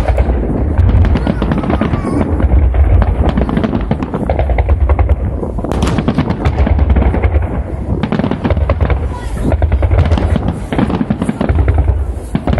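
A fireworks salute: a continuous cannonade of shells launching and bursting in dense, overlapping booms and crackles, with no pause between them.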